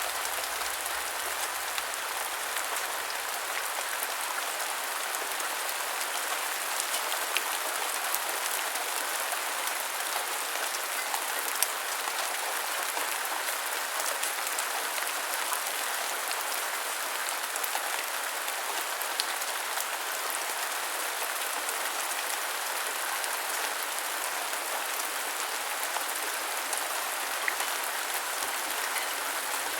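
Steady rainfall: an even hiss of rain, with now and then a single louder drop ticking.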